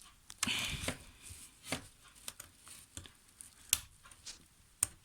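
Hands handling Roomba brush parts: a series of separate sharp plastic clicks and knocks, with a short rustle about half a second in.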